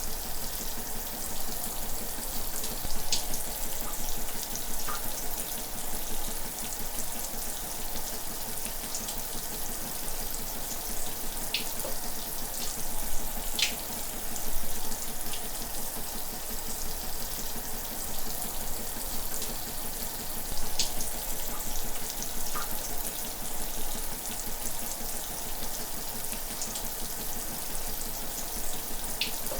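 Shower running steadily, water spraying and splashing, with occasional brighter splashes.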